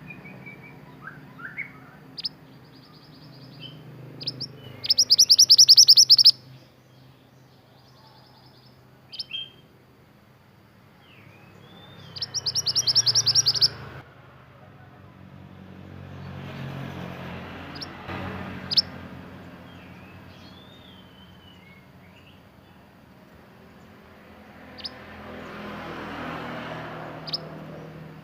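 Male pied bushchat (mantenan) singing: two loud, fast rattling trills about a second and a half long, one about five seconds in and one near the middle, among scattered short chips and whistles. Underneath, a low background rumble swells and fades twice.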